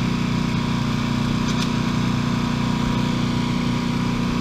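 Wood chipper running steadily with an even engine drone and a thin steady whine, with no branch being chipped.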